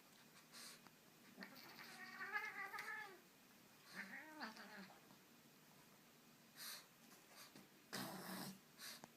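Cat meowing: a long wavering meow about two seconds in and a shorter rising-and-falling meow about four seconds in, followed by a few short noisy sounds near the end.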